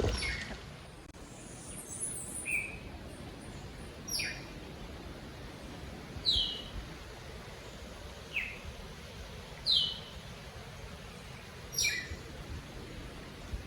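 A bird calling: short, sharp chirps that drop in pitch, about seven in all, a second or two apart, over a steady background hiss.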